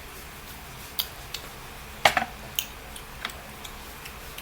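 Eating noises at a meal of chicken and rice: a scattered series of short, sharp clicks and taps, the loudest about two seconds in.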